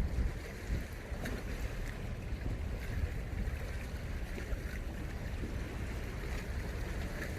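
Sea surf washing on the shore, with wind rumbling on the microphone throughout.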